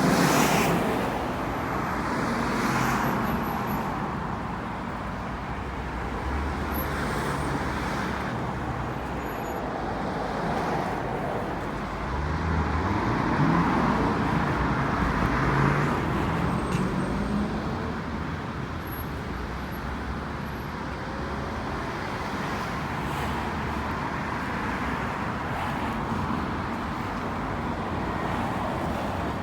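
Road traffic noise: a steady hum of cars with several vehicles passing, one engine audibly speeding up about halfway through.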